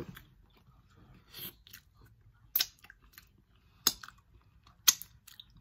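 Close-up eating sounds from someone chewing boiled shrimp, with a few sharp clicks. Three loud ones come about a second apart in the second half.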